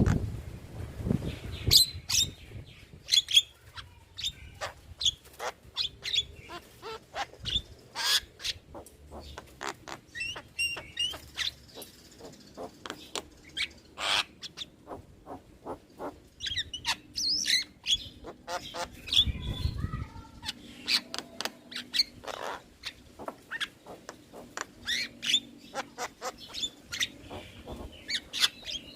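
Javan myna (jalak kebo) singing a varied, chattering stream of short sharp chirps, squeaks and whistles in quick succession. A low rumble comes in briefly near the start and again about 19 seconds in.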